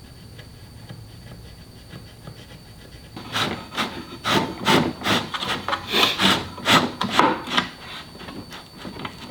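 Quick back-and-forth rubbing strokes on wood, about three or four a second, starting about three seconds in and dying away near the end.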